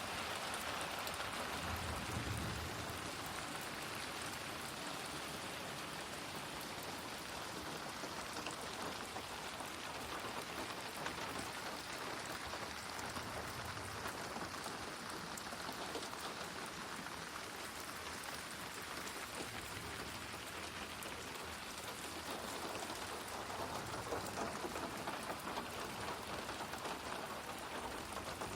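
Steady rain falling, a dense patter of drops on a surface, with a brief low rumble about two seconds in.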